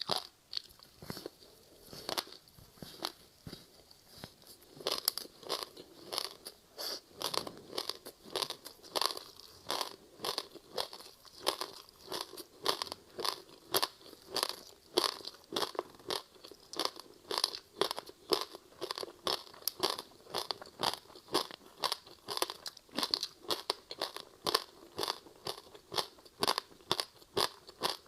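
Frozen passion-fruit ice with sesame seeds being bitten and chewed close to the microphone: a steady run of sharp crunches, about two to three a second.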